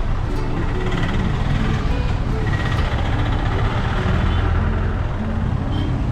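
Bus stand traffic noise: bus engines running with a steady low rumble, amid general street sound.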